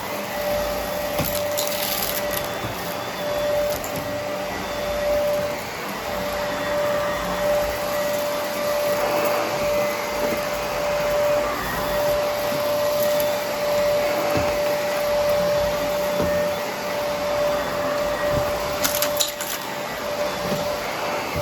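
Vacuum cleaner running with its brushroll on, a steady motor whine over airflow noise. There are brief crackles about two seconds in and near the end as debris is sucked up.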